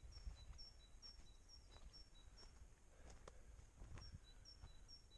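Faint bird song: a small bird repeating a high two-note phrase, about two notes a second, in two runs with a pause of about a second and a half between them.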